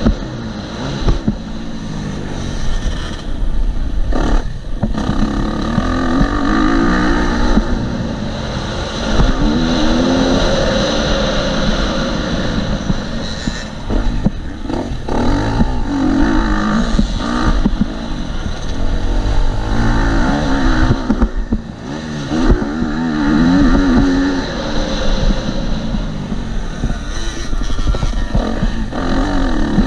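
A KTM 250 SX-F four-stroke single-cylinder dirt bike engine being ridden hard around a motocross track. It revs up and down again and again, with short dips where the throttle is shut.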